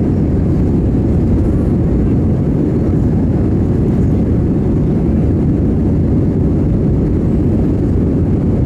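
Airbus A320 cabin noise: a loud, steady low rumble of the airliner in motion, heard from inside the cabin.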